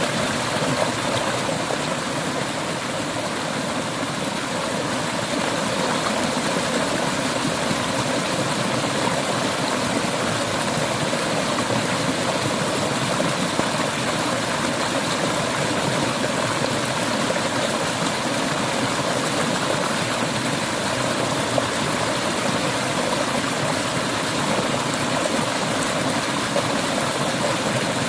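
Clear river water flowing over rocks: a steady, unbroken rush of running water.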